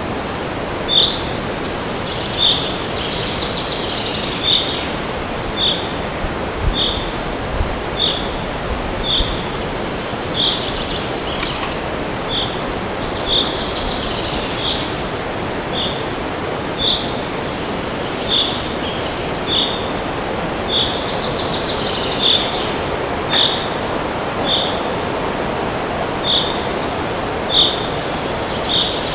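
Steady wind rushing through forest trees, with one bird repeating a short high call note about once a second and other birds warbling faintly now and then.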